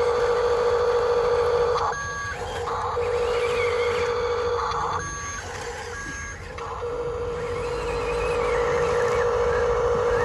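Steady high whine of a radio-controlled model vehicle's electric motor and gearing. It stops briefly twice, and short electronic beeps sound three times during the pauses.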